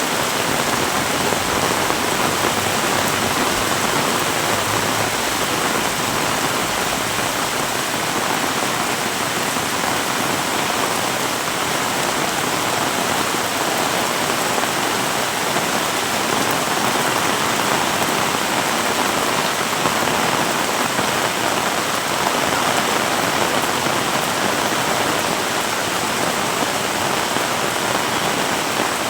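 Heavy rain falling and splashing on surfaces, a dense, even hiss that holds steady throughout.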